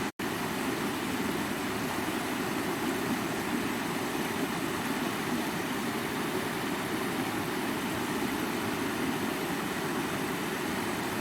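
Stream water rushing and splashing over rocks, a steady, even rush, with a split-second dropout just after the start.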